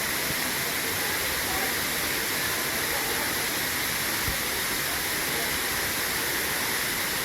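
Wei Sawdong waterfall's falling water rushing, a steady, even noise that does not change.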